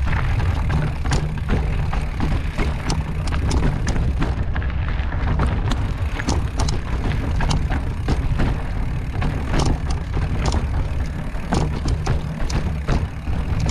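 Mountain bike riding over a rocky trail: steady wind rumble on the microphone with frequent clicks, knocks and rattles from the tyres and bike on the rocks.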